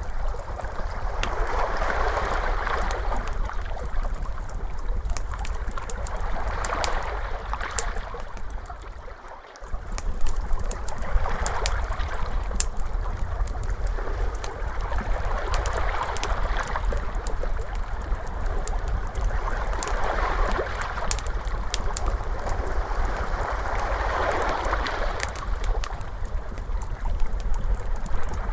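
Ocean waves washing in and out, swelling about every four to five seconds over a low rumble, with a wood fire crackling and popping throughout. The sound drops away briefly about nine seconds in, then resumes.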